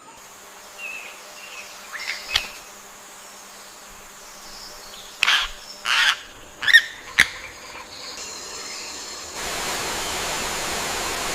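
Rainforest ambience: a steady high insect whine under a handful of short, sharp bird calls, the loudest coming in quick succession around the middle. Near the end it changes to an even rush of flowing water.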